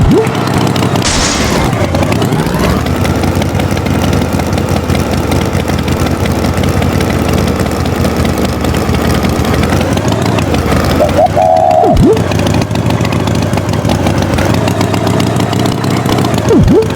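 Animated tractor engine running steadily. Quick falling swoops cut in about twelve seconds in and again near the end.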